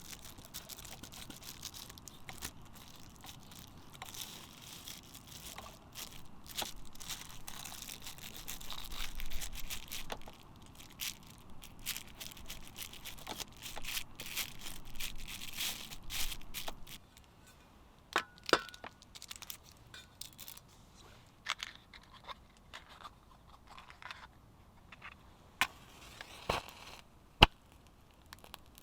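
Crackling and popping over a wood cooking fire: a dense hiss full of quick crackles for the first half, then only scattered sharp pops.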